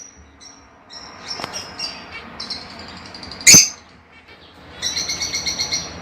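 Lovebirds chirping: scattered high chirps, one loud, sharp shriek about three and a half seconds in, then a fast run of chirps near the end.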